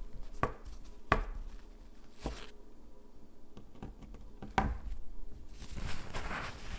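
Small hard objects tapped and set down at close range during a manicure: four or five separate light clicks and knocks a second or more apart, then a soft scratchy rustling near the end.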